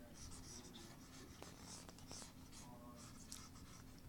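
Faint, repeated drawing strokes: a drawing tool scratching across the drawing surface in quick short strokes as animation frames are sketched.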